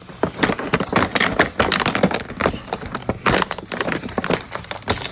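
Plastic packaging and pieces of a toy kitchen set being handled: a dense, irregular run of crackles, clicks and small knocks.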